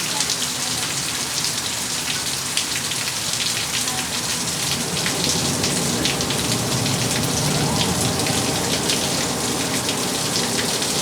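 Steady rain shower falling on hard surfaces, a constant hiss scattered with the ticks of individual drops.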